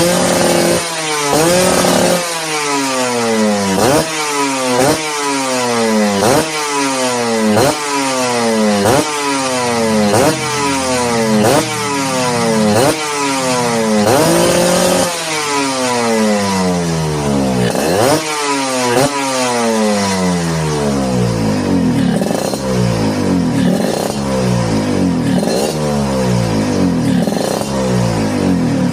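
Tuned two-stroke motorcycle engine with an aftermarket exhaust being blipped on the throttle over and over, its pitch rising and falling about once every second and a half. About two-thirds through, the revs turn lower and quicker.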